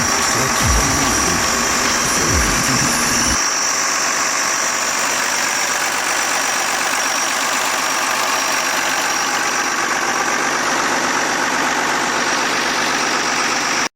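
Fordson Major tractor's Ford Dorset diesel engine idling steadily. Music with a low bass line plays over it for the first few seconds and cuts off abruptly, and the engine sound stops suddenly at the end.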